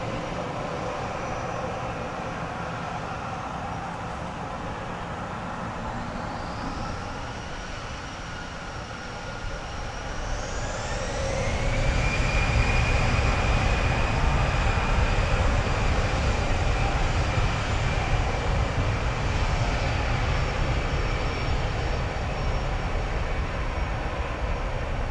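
Airbus A320 jet engines whining at low power, then spooling up about ten seconds in with a rising whine. They settle into a louder, steady high whine over a deep rumble.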